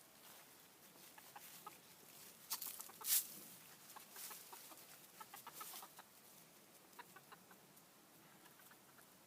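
Domestic chickens clucking in short, soft, scattered notes, with a few louder brief noisy bursts between about two and a half and six seconds in, the loudest just after three seconds.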